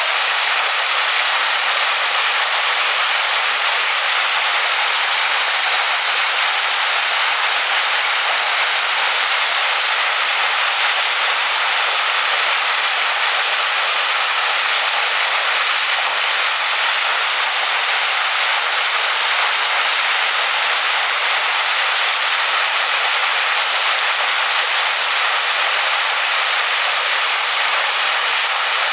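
Waterfall pouring onto rocks: a loud, steady rush of water, mostly hiss and splash with little low rumble.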